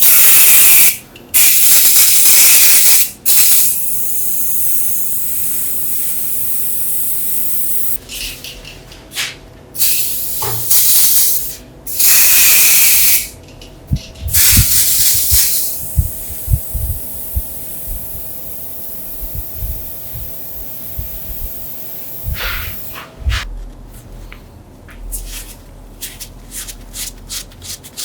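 Several loud bursts of hissing spray, each lasting a second or two, over a fainter steady hiss, with a few dull knocks in the middle and light ticking near the end.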